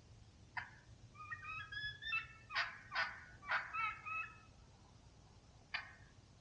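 Turkey calling: a sharp note, then a run of yelps broken by sharp, sweeping notes, and another sharp note near the end.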